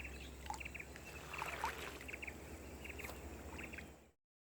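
Birds calling outdoors: a short chirping note repeated in quick groups of three or four, about once every second, with a couple of brief whistled slides, over a low steady rumble. The sound cuts out about four seconds in.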